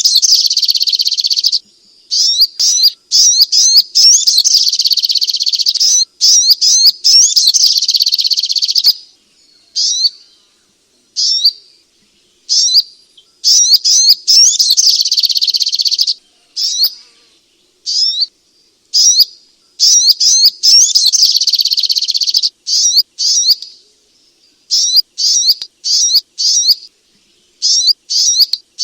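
Sogok ontong (spiderhunter) song: loud, high, rapid chirping in dense runs of one to three seconds, broken by short gaps and single sharp notes.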